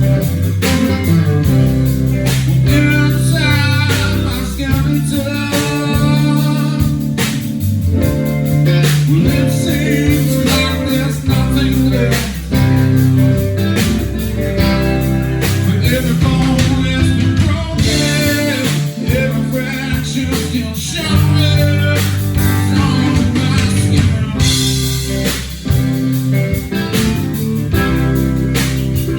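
Live blues-rock band playing a song: electric guitar and bass over a steady groove, with a wavering lead line bending in pitch in places.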